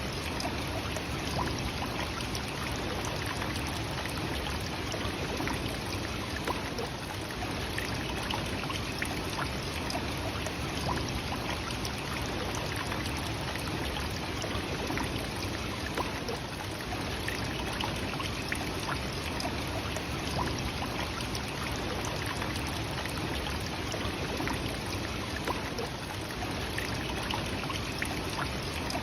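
Nachi Falls, a tall waterfall, with its falling water rushing steadily in an even, unbroken roar.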